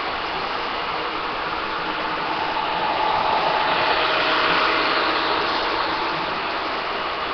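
Roomba robot vacuum running steadily, a whirring motor and brush noise with a faint steady whine in it.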